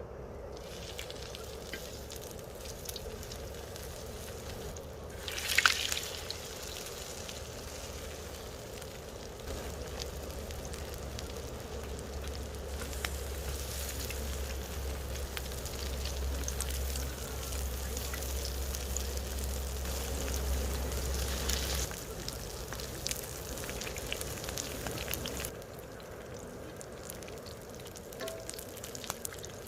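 Food frying and sizzling in hot oil in a pan, a steady crackling hiss with a louder burst of sizzle about five seconds in. A low steady rumble runs under it and stops about three-quarters of the way through.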